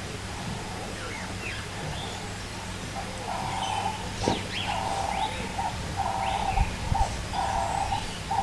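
Several wild birds chirping and calling outdoors, with short rising and falling chirps throughout. From about three seconds in, a bird's repeated call sounds roughly once a second.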